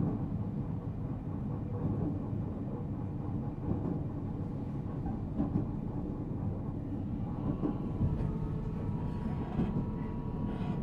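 Running sound inside the motor car of a JR Central 313 series 0 subseries electric train: a steady rumble of wheels on rail. About seven seconds in, a faint steady tone joins it.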